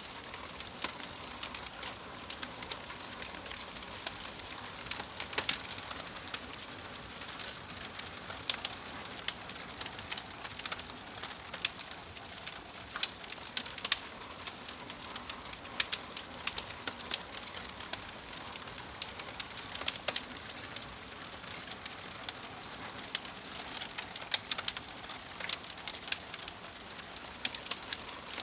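Fireplace fire crackling: a steady soft hiss with irregular pops and snaps throughout.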